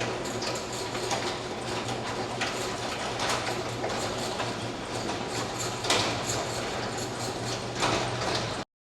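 A 7.3L Ford Godzilla V8 in a Bronco cruising at a steady speed: a low, even engine drone under road noise, with a few sharp knocks and rattles. The sound cuts off suddenly near the end.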